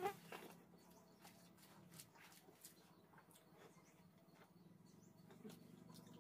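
Faint eating sounds of rice and dry-fish gravy eaten by hand: wet chewing and lip-smacking clicks, the loudest right at the start, over a low steady hum.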